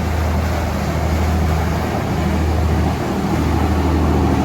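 Fishing charter boat's engines running as it passes through the inlet: a steady low drone over a constant rushing noise.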